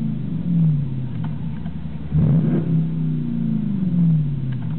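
Jeep Grand Cherokee SRT8's 6.1-litre Hemi V8 revved through its open exhaust cutouts and Magnaflow muffler: the pitch of an earlier rev falls back at the start, then the engine is blipped again about two seconds in and falls back toward idle.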